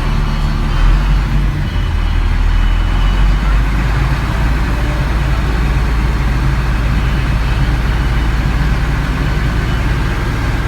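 Dongfeng dump truck's diesel engine running steadily while it powers the hydraulic hoist raising the dump bed. The engine note shifts slightly about three seconds in, then holds.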